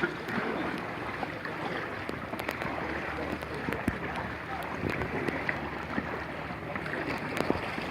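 Water splashing and lapping around a canoe, with scattered small knocks.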